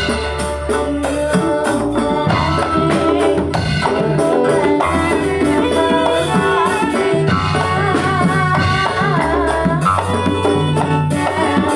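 Ndolalak dance music: dense drumming and rattling percussion over a sustained bass line that changes note every second or two, with a wavering melody line above.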